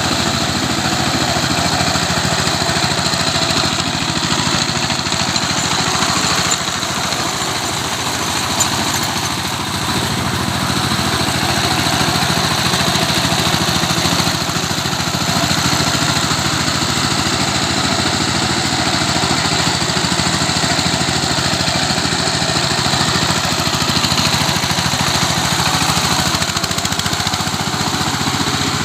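Tractor engine running steadily while it churns a wet field into mud, easing off slightly for a few seconds about seven seconds in.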